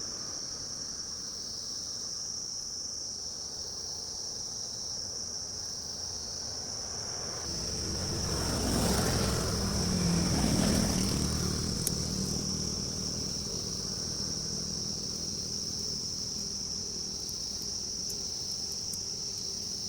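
Insects keep up a steady high-pitched drone while a motor vehicle passes by, its sound swelling and then fading about halfway through.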